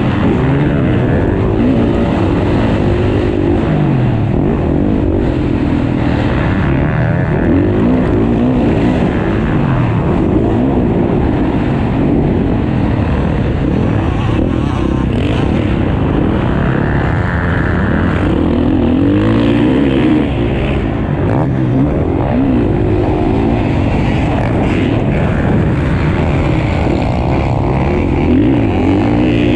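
Several motocross dirt bikes racing, their engines revving up and falling back over and over as the riders accelerate and shift, several pitches overlapping.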